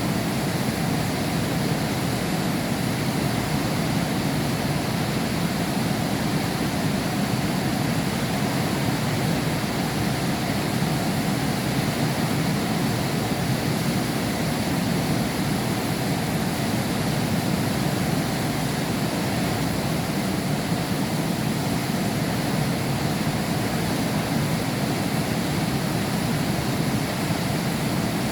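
Heavy rain falling steadily against window glass, a dense, even wash of sound with no separate drops standing out.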